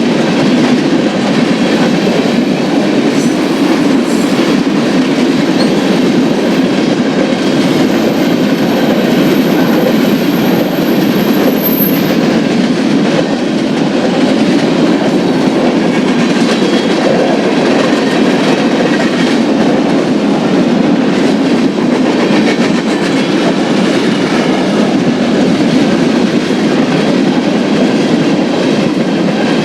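Union Pacific manifest freight train rolling past, a steady, loud noise of wheels on rail with no letup. A faint high-pitched tone runs through the first twelve seconds or so.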